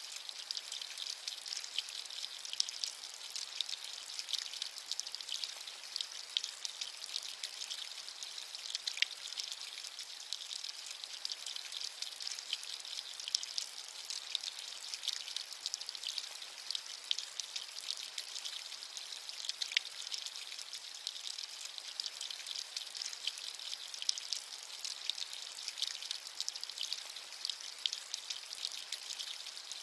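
Steady rain falling, a light even hiss thick with small individual drop ticks, with little low rumble.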